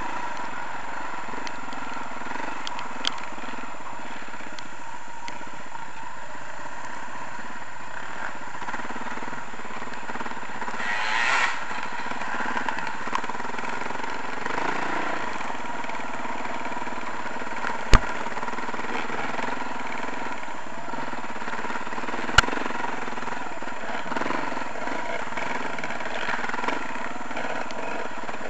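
Trail motorcycle's engine running steadily, heard from on board as it rides a dirt track. Two sharp knocks come in the second half, the first the loudest.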